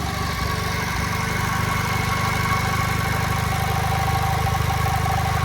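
JAP Model 55 single-cylinder TVO stationary engine running steadily, driving an ex-army 5 kW generator.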